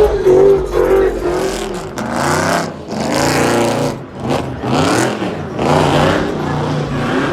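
Car engines revving, the pitch rising and falling several times.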